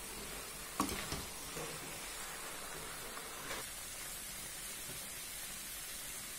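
Grated carrots and khoya frying in ghee in a kadhai, a low steady sizzle as a spatula stirs them, with one sharp knock of the spatula against the pan about a second in.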